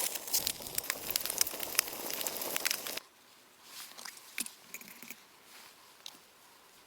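Food frying with a crackling sizzle full of sharp pops, cut off abruptly about three seconds in; after that, only a few faint scattered crunches.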